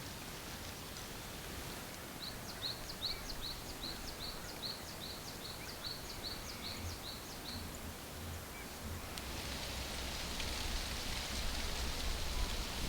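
A small songbird singing a fast, even series of short high notes, about four a second, for some five seconds. Near the end a steady high hiss of outdoor noise builds up.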